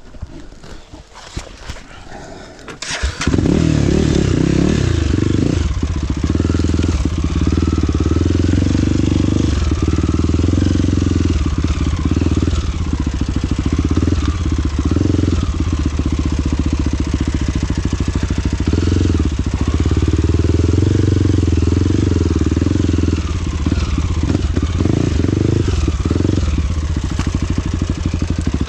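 Trail motorcycle engine starting about three seconds in, after a few clicks, then running loudly and steadily with small rises and falls in level.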